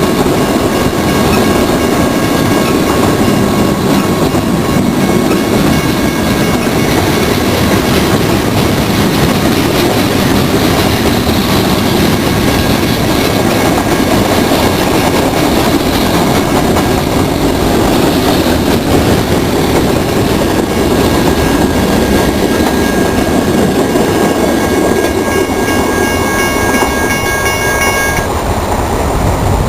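CSX freight train cars rolling past at close range, a loud steady rumble of wheels on rail with some clickety-clack. A thin, steady high-pitched tone runs over the rumble and cuts off suddenly near the end.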